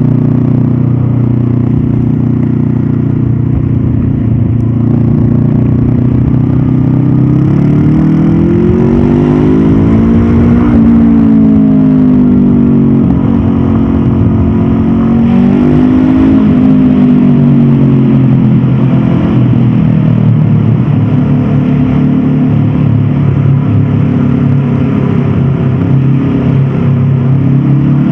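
Honda CB500F's parallel-twin engine under way, heard from the bike. It runs steadily, climbs in pitch under acceleration for about three seconds before dropping back, climbs again briefly, then settles into a steady cruise, with wind noise underneath.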